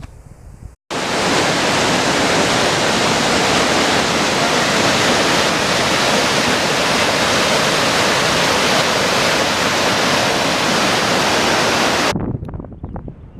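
Rushing river water: a loud, steady wash of noise that cuts in abruptly about a second in and cuts off abruptly near the end.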